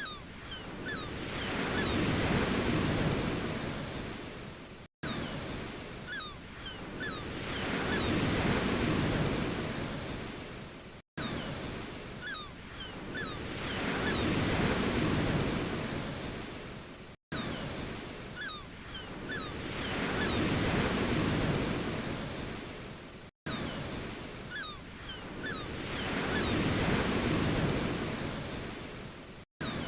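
Ocean waves washing in, one swell about every six seconds that builds to a peak and fades away. Each swell is followed by a brief cut to silence, the mark of one short recording played over and over.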